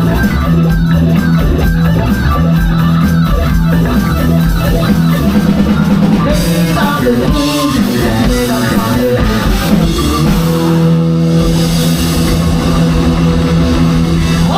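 Live rock band playing: electric guitars with bass and drum kit.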